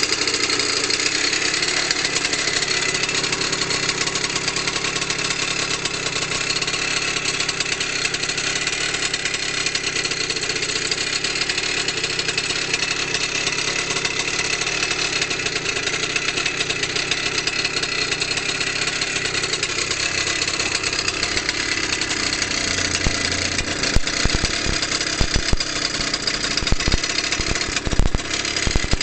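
LEM 50cc automatic motocross minibike engine idling steadily, with scattered thumps in the last several seconds.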